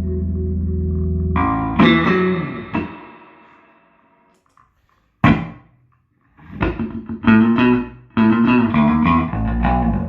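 Electric bass guitar played through a 1973 Fender Twin Reverb Silverface amp with 1978 CTS Fender Special Design speakers. A held note rings and fades away, a single note is plucked about five seconds in, and a quick run of notes follows near the end.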